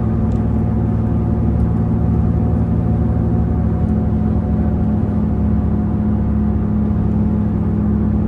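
Infiniti G37's VQ37 V6 with a loud aftermarket exhaust, droning steadily at an even engine speed while the car cruises.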